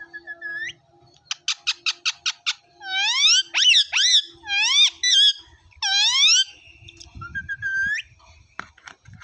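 A parrot calling: a quick run of about seven short clicking notes, then a string of loud rising squawks, and one more rising call near the end.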